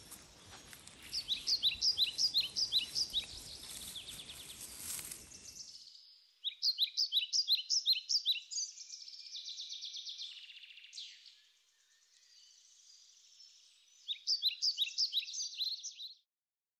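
A songbird singing in three bursts of rapid, repeated high chirping notes, over outdoor background noise that cuts off abruptly about six seconds in.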